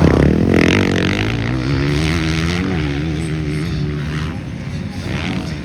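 Motocross motorcycle engines racing on track, with the engine note wavering with the throttle and dropping in pitch over the first few seconds. It is loudest at the start and settles to a steadier running note.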